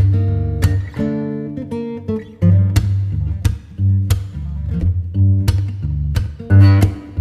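Instrumental holiday background music led by plucked and strummed acoustic guitar over a steady bass line.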